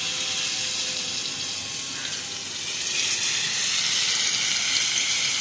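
Masala-coated eggplant slices sizzling in hot ghee on an iron tawa, a steady hiss that grows louder about three seconds in.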